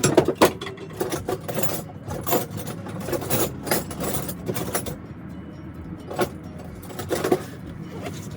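Metal hand tools clinking and rattling, as in a search through a socket set for an extension: a run of quick clatters for the first few seconds, then two single clinks near the end.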